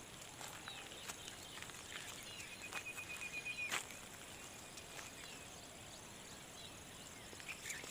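Faint open-field ambience: a rapid trilled chirping call lasting about a second, starting a little over two seconds in and ending in a sharp click, over a steady high hiss, with a few scattered faint clicks.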